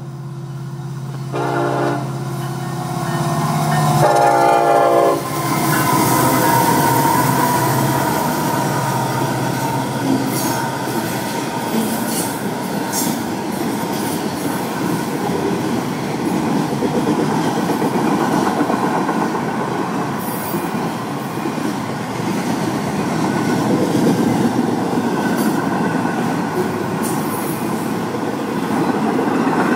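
Florida East Coast Railway diesel freight locomotive's horn sounding in the first five seconds, its blasts broken by short gaps. Then the train passes close by: a long intermodal consist of trailers and containers rolling past with steady wheel-and-rail noise and clickety-clack over the rail joints, and occasional sharp squeals.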